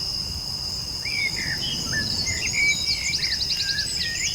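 Forest ambience: many birds chirping over a steady, high insect buzz like crickets, with a quick trill about three seconds in.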